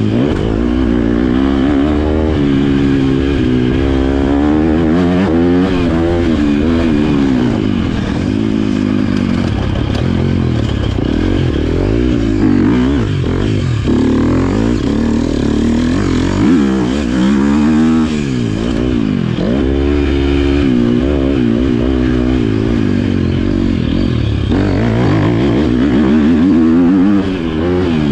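Motocross bike engine revving up and down over and over as it is ridden hard, the pitch climbing and falling with each throttle and gear change.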